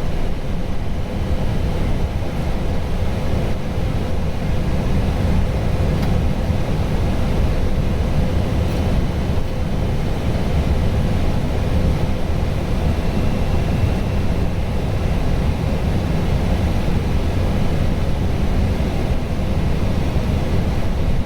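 Steady in-flight noise on the flight deck of an Airbus A320 on its descent: a low, even rushing rumble with a faint steady hum in it.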